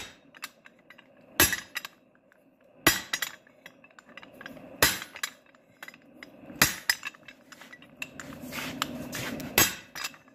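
Hammer blows on a blacksmith's guillotine tool fitted with flat dies, forging a square tenon on a steel bar: five heavy metal strikes a second or two apart, with lighter clinks of the tool between them.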